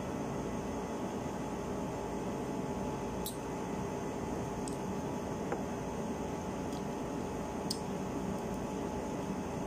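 Steady low background hum of room noise, with a handful of faint clicks and smacks from chewing fried chicken eaten with the hands.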